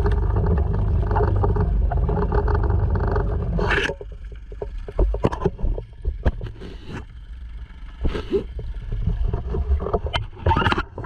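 Honda 2.3 four-stroke single-cylinder outboard running steadily, cutting off abruptly about four seconds in. A run of irregular knocks and clatters follows.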